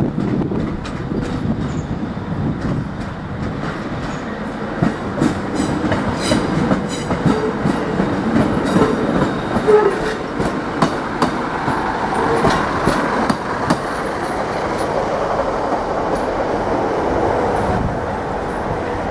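English Electric Class 20 diesel locomotives hauling a rake of London Underground S Stock slowly past, engines running. Irregular clicking comes from the wheels crossing rail joints and pointwork, thickest through the middle of the passage.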